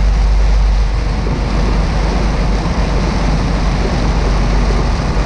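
Steady low rumble of a tractor-trailer running down the road, engine and road noise heard inside the cab.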